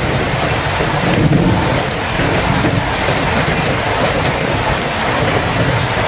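Steady heavy rain, with a low rumble of thunder underneath that swells a little about a second in.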